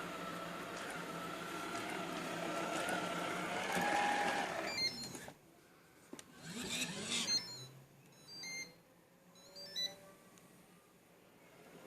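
iClebo Arte robot vacuum cleaner running with a steady whir, which cuts off sharply about five seconds in. In the quiet that follows come a few brief knocks and handling noises and faint short electronic beeps.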